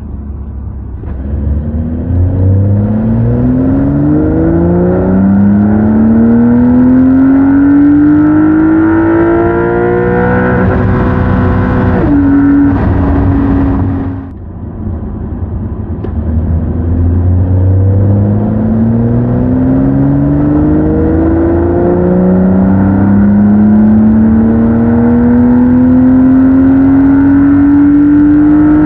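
Porsche 911 Carrera's 3.0-litre turbocharged flat-six pulling hard under acceleration, its pitch climbing steadily through the gears with quick PDK upshifts. About halfway through the revs hold steady, the sound briefly drops away, then a second long pull climbs in pitch again.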